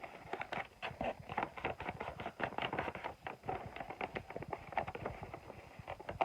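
Paper crinkling and crackling in short, irregular clicks as a folded paper airplane's wings are bent and straightened by hand.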